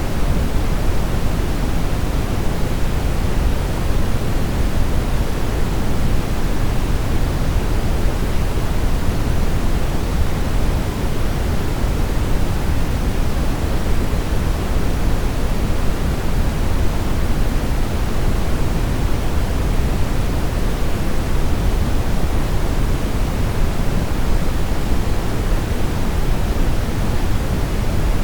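Steady brown noise: a continuous, even rumble-like hiss, strongest in the low end and falling off toward the highs, with no changes or events.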